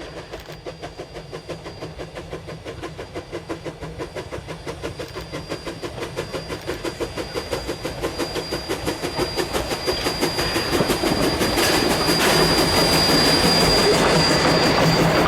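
Steam locomotive K 88, a Rogers-built 4-4-0, working a train, its exhaust beats chuffing at about three a second and growing steadily louder as it draws closer. A thin, high steady whine comes in strongly over the last few seconds.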